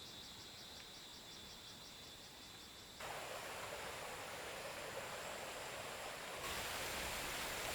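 Insects chirping in a high, even pulse of about five beats a second, cut off abruptly about three seconds in by a steady outdoor hiss of rain or running water, which steps up louder again near the end.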